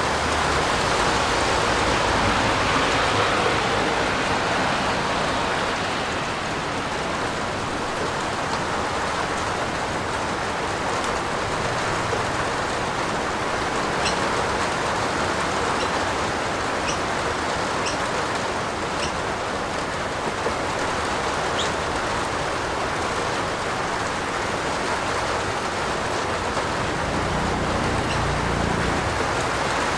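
Steady rain falling on a roof, an even hiss with a few faint sharper drip ticks in the middle and a low rumble near the end.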